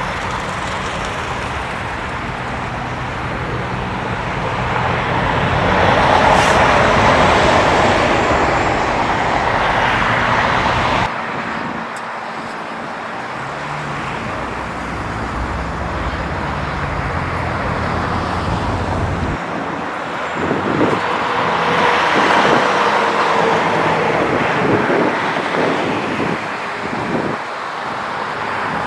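Road traffic on a freeway: vehicles passing, the noise swelling and fading twice, with a few short knocks late on.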